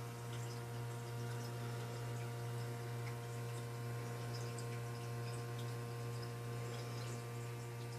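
Small terrarium water pump humming steadily, with faint scattered drips and ticks of water.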